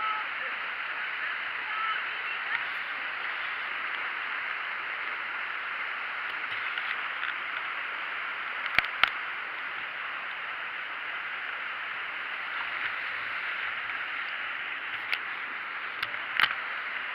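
Steady rush of flowing water, with a couple of sharp clicks about nine seconds in and a few more near the end.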